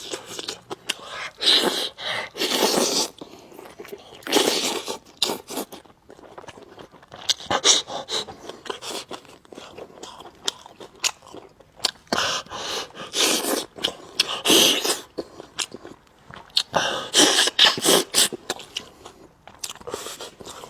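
Close-up eating sounds: a person chewing and biting food, with many small wet clicks and several louder noisy bursts lasting about a second each.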